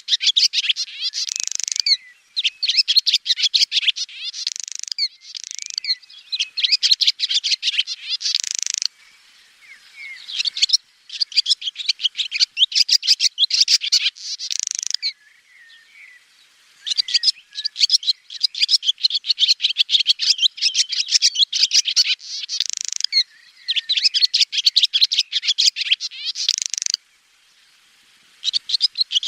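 Swallow song: rapid, high twittering chirps and trills in bouts of a few seconds, broken by short pauses.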